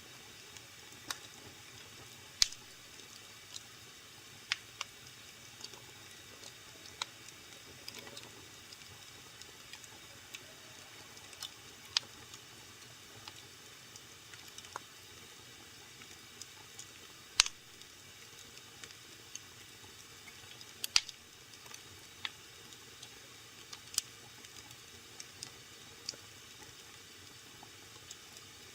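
Wood fire in a fireplace crackling: irregular sharp pops and snaps, a handful much louder than the rest, over a faint steady hiss.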